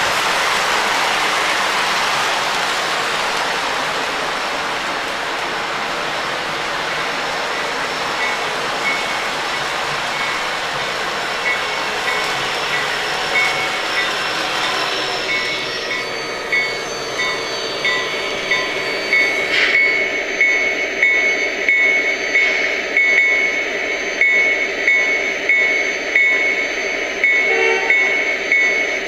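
Lionel Lionmaster New York Central SD90 model diesel and freight cars running on three-rail O-gauge track. The rolling noise fades slowly over the first half. From about halfway, a high tone pulses regularly, roughly once a second.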